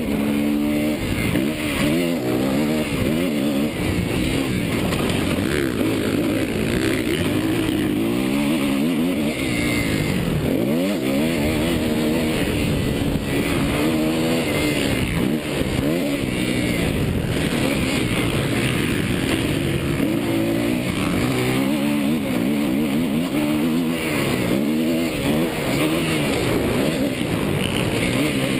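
Suzuki motocross bike's engine being ridden hard, revving up and down again and again as the rider works the throttle and gears, over a steady rush of noise.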